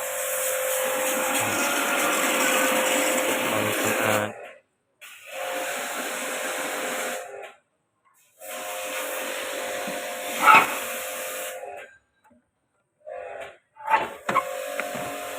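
Steady hissing noise with a low hum, broken into several stretches by abrupt cuts to silence, with a sharp knock about ten and a half seconds in and a few more knocks near the end.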